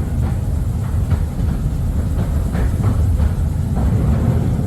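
Narrow-gauge electric Mail Rail train running through a tunnel: a steady low rumble of wheels on the track, with scattered clicks and short squeaks.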